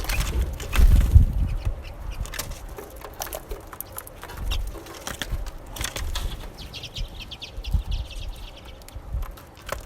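Small songbirds at a winter bird feeder: fluttering wings and scattered pecking taps, with a quick run of high twittering call notes from about six and a half seconds to nine seconds in.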